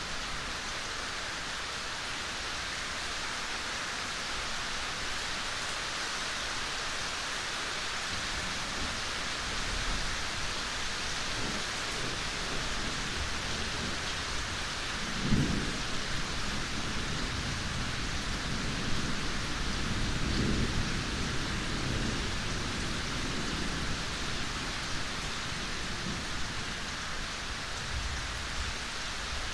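Steady rain falling, with thunder rumbling low underneath from about a third of the way in. The rumbling swells twice, most strongly near the middle, and fades again before the end.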